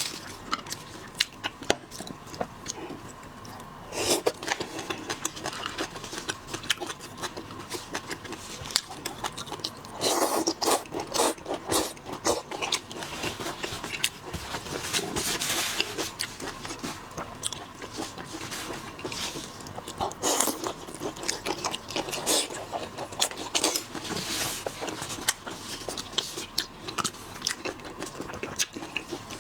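Close-miked mukbang eating: a person biting and chewing with a steady run of small mouth clicks. There are several louder spells of chewing noise about 4, 10, 15 and 20 seconds in.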